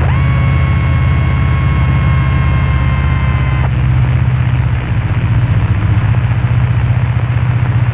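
Cessna 172's engine and propeller droning steadily, heard inside the cabin. For the first three and a half seconds a steady, high, whistle-like tone sounds over the drone; it slides up as it starts and then cuts off abruptly.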